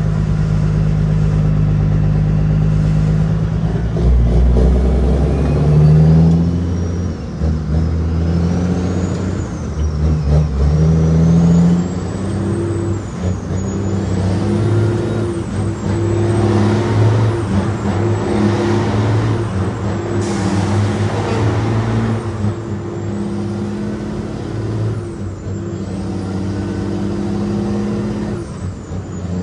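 Cat 6NZ six-cylinder diesel in a heavily loaded Kenworth W900L pulling on the road, its pitch stepping up and dropping back again and again as the gears are worked through. A high whistle over it rises and falls with the engine speed.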